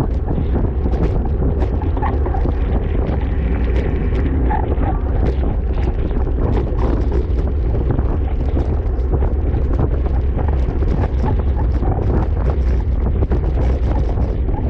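Wind buffeting a microphone carried at racing speed on a bicycle, a steady heavy rumble with many small rattles and clicks throughout.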